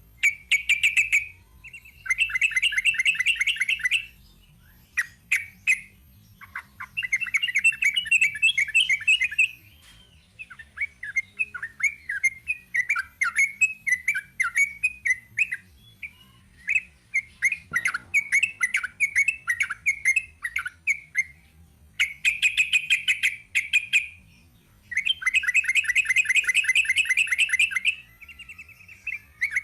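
Sooty-headed bulbul (trucuk) singing a long, rapid-fire chattering song: bursts of very fast repeated notes, each a second or two long, broken by short pauses, with looser chattering phrases between the bursts.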